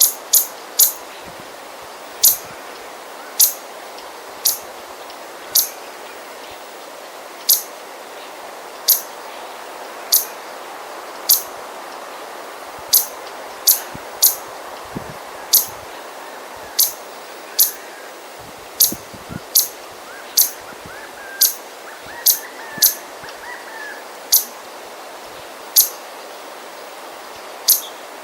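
Small bird giving sharp, high scolding calls, one short note about every second, over a steady breeze in the trees. Some fainter, lower chirps join in about three quarters of the way through.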